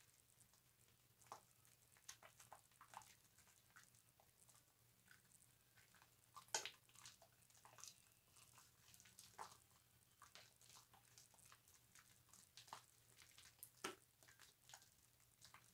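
Faint, irregular wet crackling and squishing of soap being lathered on a loofah, with a couple of sharper pops.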